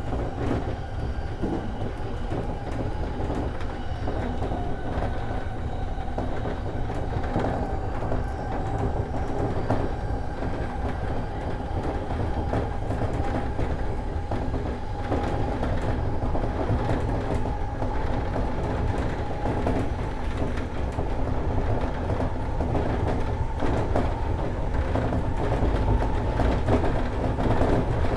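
JR East E231 series 1000-number electric commuter train running along the line, heard from inside the leading car: a steady rumble of wheels on rail with a steady hum held over it and many small clicks.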